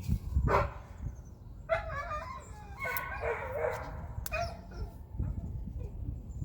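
A dog barking and yipping: several short calls over a few seconds.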